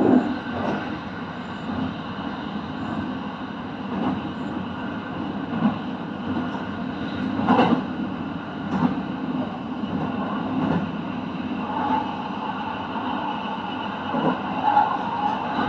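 Kintetsu train running steadily, with a continuous rumble and several short knocks and clacks from the wheels and track.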